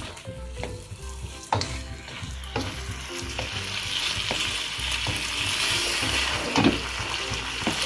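Shark meat sizzling in sauce in a nonstick wok while a wooden spatula stirs it, knocking and scraping against the pan several times. The sizzle grows louder from about halfway.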